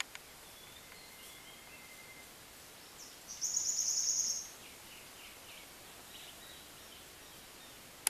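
Wild birds calling in forest: short high notes and a thin held whistle, then a loud, fast buzzing trill lasting about a second midway, followed by a run of short chirps.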